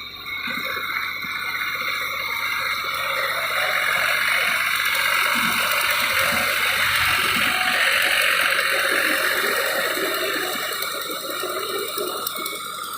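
A dense chorus of frogs and insects calling, swelling louder in the middle and easing off toward the end.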